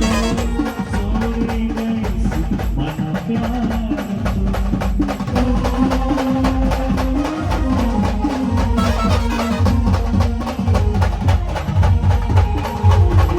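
Maharashtrian band playing a dance song: a melody line over steady drum and percussion beats, with heavier bass-drum strokes coming in near the end.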